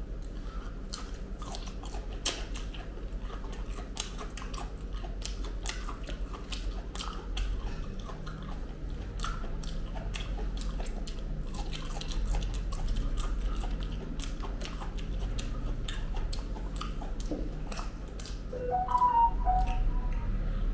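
Close-up eating sounds of ripe jackfruit bulbs being chewed, with many short wet clicks and smacks of the mouth. Near the end comes a brief louder pitched sound.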